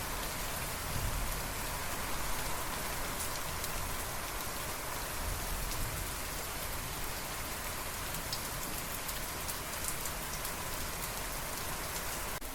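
Steady rain falling on a surface, a continuous even hiss with scattered individual drop ticks. No thunder is heard.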